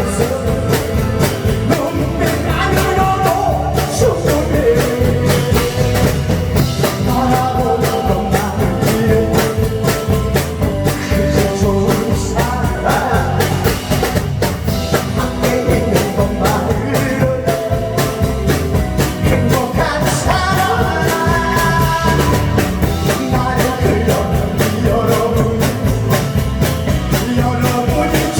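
A song sung over a loud accompaniment with a driving drum beat.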